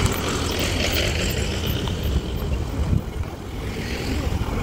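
SUV engines running as the vehicles drive past on a dirt road, a steady low rumble.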